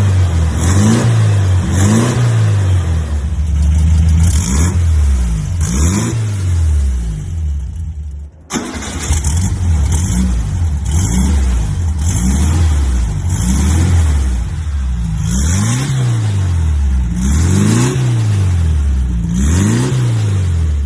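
Vintage car engine and exhaust being revved again and again, the pitch climbing and falling every second or two. The sound drops away briefly about eight seconds in, then the revving carries on.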